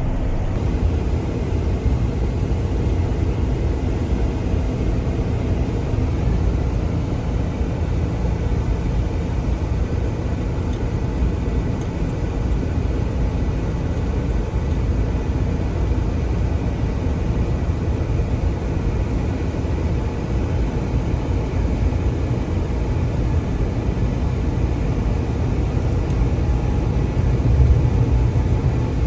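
Cab noise of a semi-truck driving at highway speed: the steady low drone of its diesel engine with road and tyre noise from the snow-covered highway, swelling slightly near the end.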